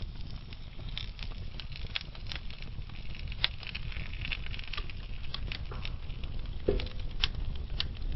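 Burning logs crackling, with irregular sharp pops over the low, steady rumble of the flames. A louder pop comes a little before the end.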